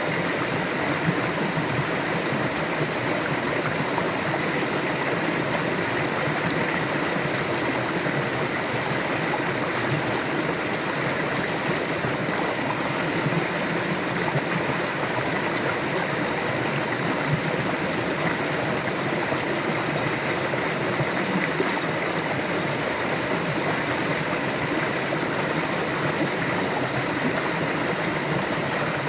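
River water flowing steadily over rocks, an even rushing and gurgling without pause.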